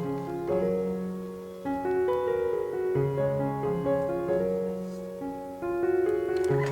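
Background music: soft piano chords, held notes changing about every half second to second.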